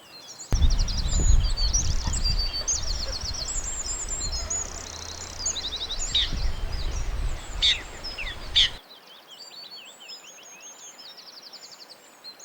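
Songbirds chirping and calling in fast trills and short high chirps. From about half a second in until near 9 s a loud low rumble lies under them, the loudest sound, and it cuts off suddenly.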